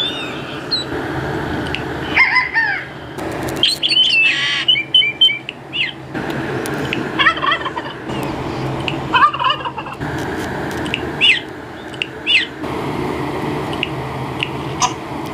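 A string of different bird calls: short chirps, whistled notes and a quick run of repeated calls. The sound changes abruptly every few seconds, over a steady low hum.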